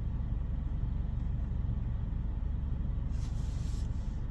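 Ryko Softgloss MAXX 5 soft-touch car wash running: a steady low rumble, with a short burst of hiss about three seconds in.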